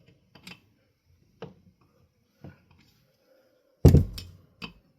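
Scattered metallic clicks and knocks as a flathead screwdriver works into the seam between the two halves of a ceiling fan motor housing to pry it open. A loud, heavy clunk comes about four seconds in, followed by a couple of lighter knocks.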